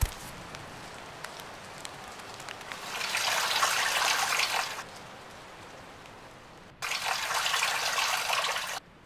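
Water pouring from a watering can and pattering onto the ground in two pours of about two seconds each, the second starting and stopping abruptly. A single thump at the very start.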